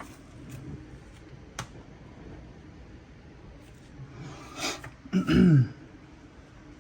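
A person clears their throat about five seconds in: a rough breath, then a short sound falling in pitch. Under it is a steady hiss of heavy rain.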